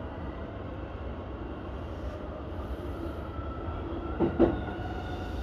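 A Keihin-Tohoku Line E233-1000 series electric train running with a steady low rumble and a faint motor whine slowly rising in pitch as it gathers speed. About four seconds in come two quick sharp knocks of the wheels over a rail joint or crossing.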